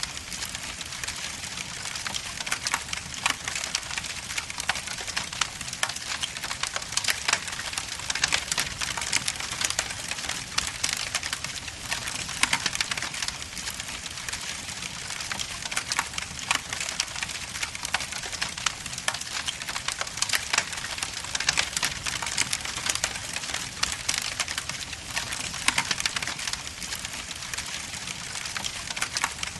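Wood logs burning in a fireplace, crackling and popping continuously: dense small snaps over a steady hiss.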